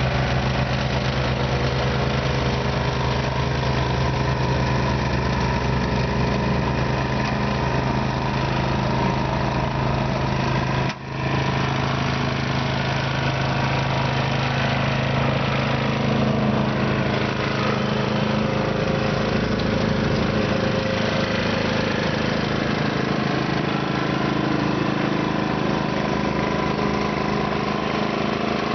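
Simplicity snow blower's engine running steadily, with a very short break about a third of the way through, after which the engine note shifts a little.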